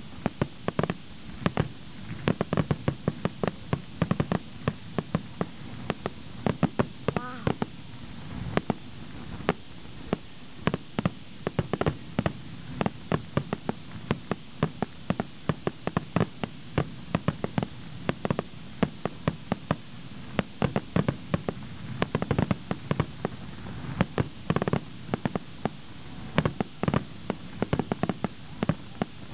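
Fireworks finale: a dense, unbroken barrage of sharp bangs and crackles, several reports a second, over a low rumble.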